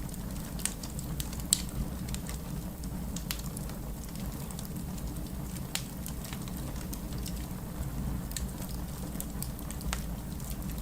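Wood fire crackling with scattered sharp pops, the loudest about a second and a half in, over a steady low rush of heavy rain.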